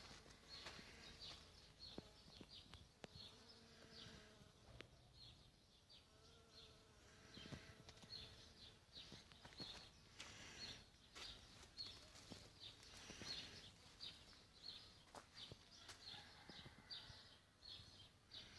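Faint outdoor ambience: flying insects buzzing past in passes of a few seconds, over a steady run of short high chirps repeated about two to three times a second.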